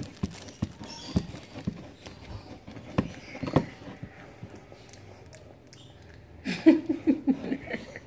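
Scattered soft clicks and taps of hands poking and handling fresh homemade slime, with a child's voice briefly near the end.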